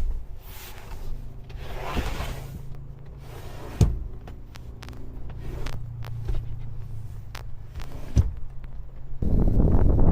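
A few sharp knocks and clunks over a low steady hum, then wind buffeting the microphone, starting suddenly near the end.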